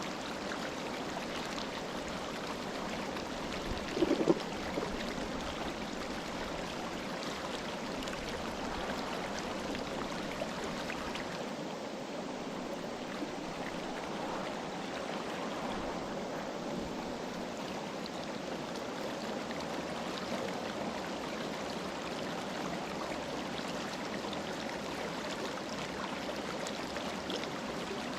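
Clear mountain river flowing over rocks: a steady rushing of water, with one brief, louder low gurgle about four seconds in.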